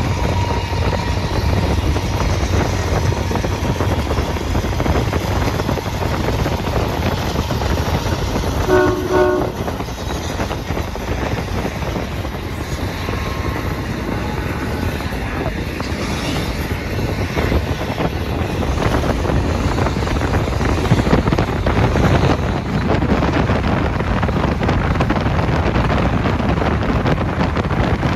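Freight train passing, its diesel locomotives and double-stack container cars making a steady rolling rumble on the rails. A short train horn blast sounds once, about nine seconds in.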